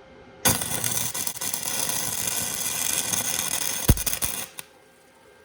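Flux-core wire welder arc crackling and sputtering for about four seconds as it welds a cast iron dumbbell head to its steel handle, with a sharp pop near the end before it cuts off. The weld throws a sparkler-like shower that the welder takes for probably a bad sign on poorly cleaned, dissimilar metal.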